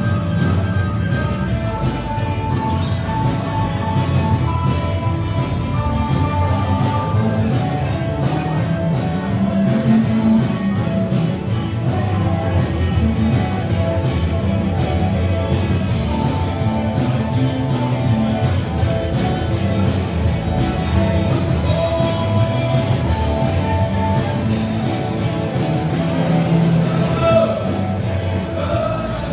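Live rock band playing, with a steady drum beat under guitar and bass.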